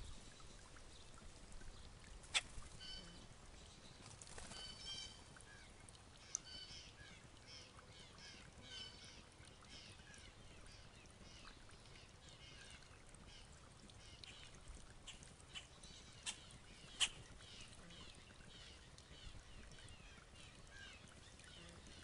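Faint songbirds chirping: a steady run of short high chirps, with a few sharp clicks, one about two seconds in and two close together near three-quarters of the way through.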